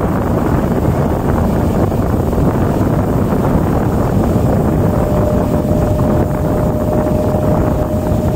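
Steady running noise of a BEML stainless-steel EMU local train heard on board, mostly rumble, with wind on the microphone. A thin steady tone joins about five seconds in.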